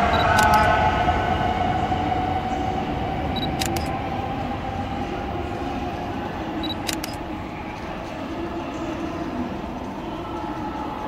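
Shinkansen train's electric traction motors whining, several stacked tones that fade and sink slightly in pitch, over rumbling running noise. Sharp double clicks come three times, about every three seconds.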